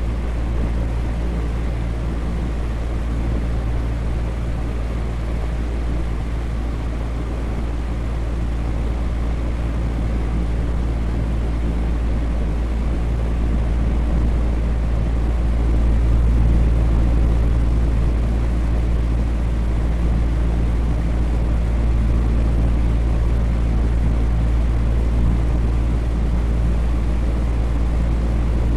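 Electric fan running steadily: an even, deep rush of moving air with a low motor hum underneath, swelling slightly about halfway through.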